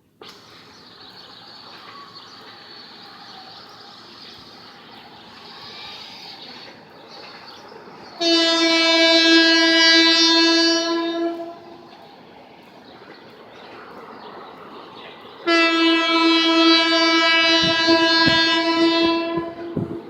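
Diesel locomotive horn sounding two long blasts, the first about three seconds and the second about four, over the steady running of a passing train. Wheels knock over rail joints near the end.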